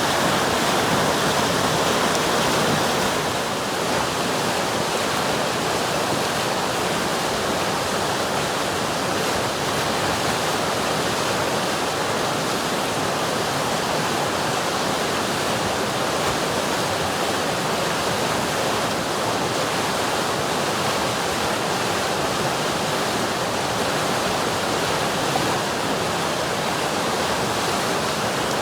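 River water rushing steadily over rocks, a dense even rush with no single splashes, a little louder for the first few seconds.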